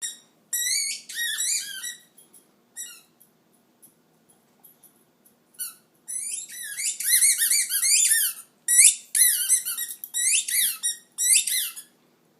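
A dog's rubber squeaky toy squeaking over and over as a boxer chews it. The squeaks are high-pitched and rise and fall in quick runs, a few a second, with short pauses between bursts.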